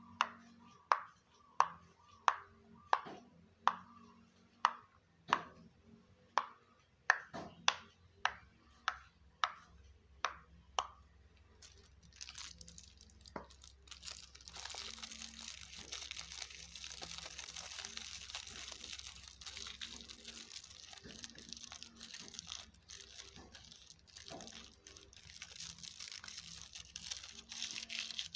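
About fourteen sharp taps, roughly one every three-quarters of a second, for the first ten seconds or so. Then, from about twelve seconds in, a steady crackling, crinkling rustle of something being handled close to the microphone.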